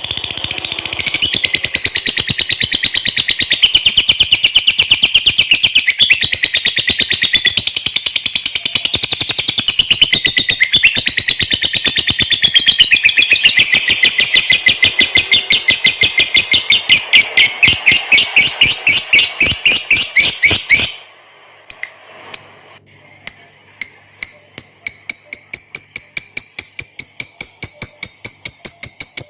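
Lovebird's long 'ngekek' song: a fast, unbroken high-pitched chatter of rapidly repeated notes, the bird in full song. It lasts about twenty seconds, breaks off briefly, then starts again as a slightly slower run of notes.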